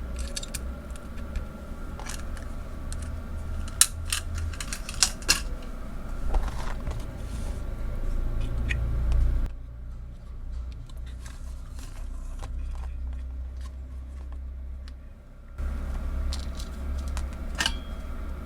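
Small sharp clicks and metallic taps of tools and parts being handled while a power IC is soldered onto a circuit board, over a steady low hum. The clicks are busiest in the first half and thin out to a few faint ones in the middle.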